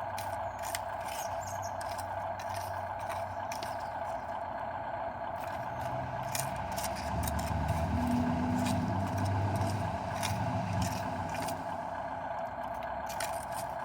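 Dump truck engine running with a steady drone and scattered rattles and clicks. The engine rumble swells louder for a few seconds around the middle, then eases back.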